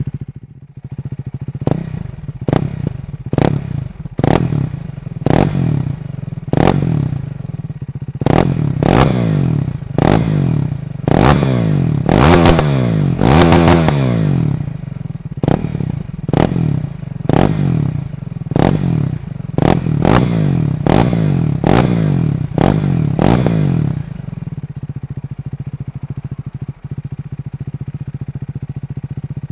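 KTM Duke 390's single-cylinder engine through an Akrapovic slip-on exhaust with the catalytic converter removed, blipped about twenty times in quick succession, each rev rising and dropping back. Between the blips and afterwards it settles to a steady idle.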